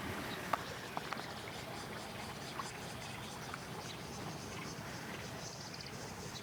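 Quiet, steady outdoor background noise with a few soft clicks about half a second and one second in.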